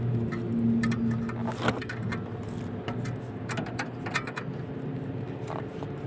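Light metallic clicks and clinks of a wrench working the turbo oil feed line fitting, irregular and sharp, over a steady low hum.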